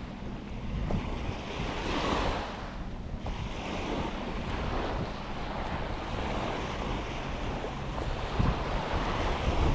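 Ocean surf breaking and washing ashore, swelling and easing, with wind rumbling on the microphone and a few sharper gusts near the end.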